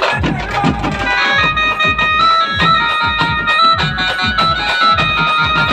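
Pad band music: an electronic keyboard plays a melody of short held notes over a steady drum beat. The keyboard comes in about a second in.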